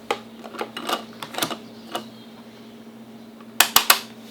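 Scattered light taps and clicks, with a quick run of three louder clicks about three and a half seconds in, over a faint steady hum.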